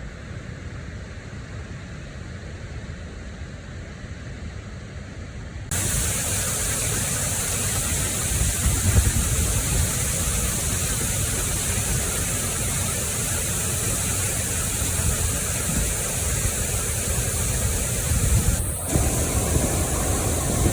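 Steady rushing noise with no distinct events; it jumps abruptly louder and brighter about six seconds in, and shifts again briefly near the end.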